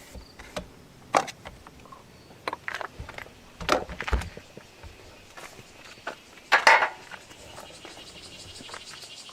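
Scattered clinks and knocks of metal tools and parts being handled during removal of the air-conditioner fan motor, the loudest about six and a half seconds in.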